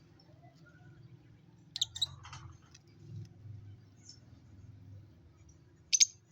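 Lovebirds giving a few short, sharp chirps: a quick cluster about two seconds in and a single loud one near the end, over a low steady hum.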